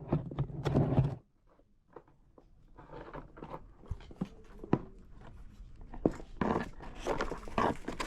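Hand-tool work on scrap material: a rubbing, scraping noise stops about a second in. After a brief near-silent gap come scattered clicks and knocks, then short rasping strokes near the end.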